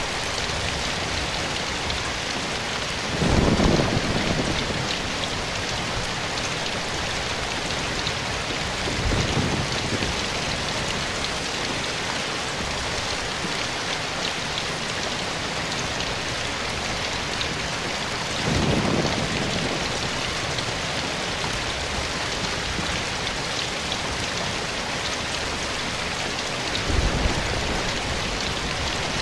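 Steady rain falling in a forest, an even hiss of drops. Four times there is a brief, louder low swell lasting about a second.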